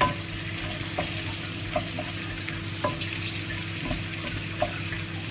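Sliced bell peppers and aromatics sizzling in a frying pan while a wooden spatula stirs them, with a few light taps of the spatula against the pan. A steady low hum runs underneath.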